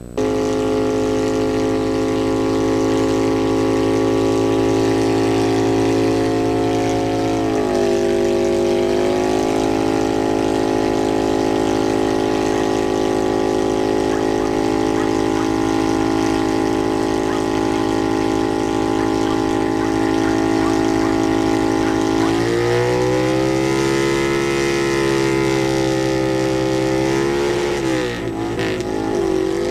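1995 Kawasaki VN800 V-twin running through straight drag pipes, held at high revs during a burnout with the rear tire spinning. The engine note stays steady, then dips in pitch and recovers twice, about a quarter of the way in and again about three quarters in, and wavers briefly near the end.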